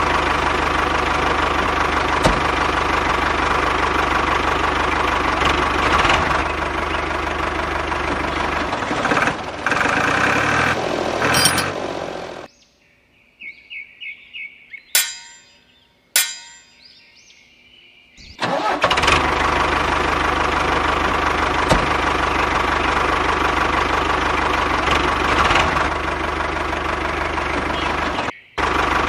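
Engine sound of a backhoe loader running steadily. It drops out for several seconds in the middle, where a few short tones and clicks are heard, then comes back.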